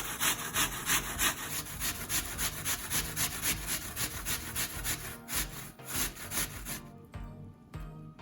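Apple being grated on a coarse grater: quick, even rasping strokes, about three to four a second, that stop about seven seconds in.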